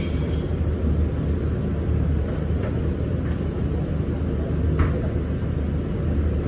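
Steady low rumble with a few faint clicks; one sharper click about five seconds in.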